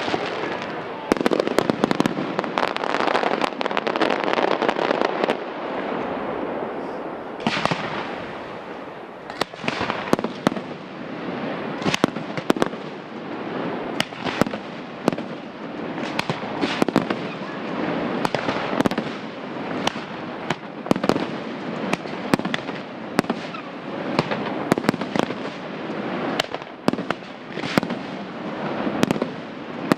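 Fireworks display: many sharp bangs from bursting shells in quick succession, about one or two a second, over a steady crackling noise.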